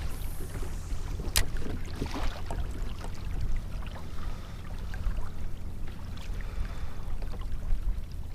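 Water trickling and splashing around a fishing kayak over a steady low wind rumble on the microphone, with one sharp knock about a second and a half in.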